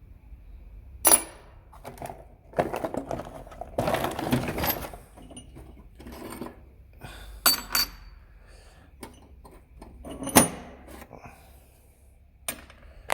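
Metal engine bearing shells handled and knocked together: a few sharp metallic clinks spread out, with a stretch of rattling and clattering a few seconds in.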